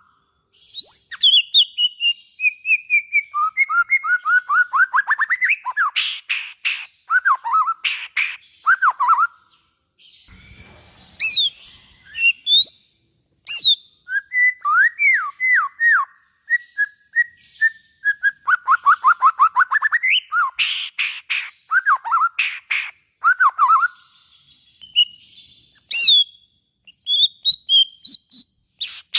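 White-rumped shama (murai batu) singing long, varied phrases. Strings of slurred whistled notes step down and then climb, mixed with fast repeated notes and sharp chattering chips, with a short pause about ten seconds in.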